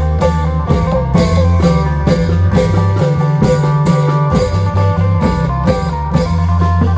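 Isan klong yao long-drum band playing at full volume: the drums beat a steady rhythm of about two strokes a second under an amplified plucked-string melody and a sustained bass line.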